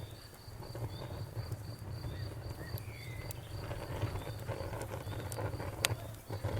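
Wood fire crackling, with scattered small pops and one sharp snap near the end, over a low steady rumble. A high chirp pulses evenly, about three times a second, in the background.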